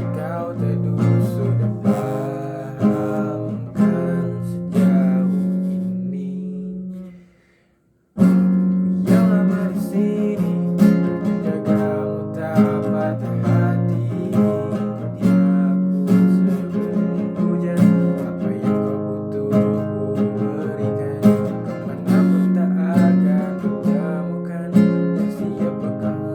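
Acoustic guitar with a capo on the first fret, strummed in chords. About seven seconds in the chords ring out and die away to a moment of silence, then the strumming starts again abruptly.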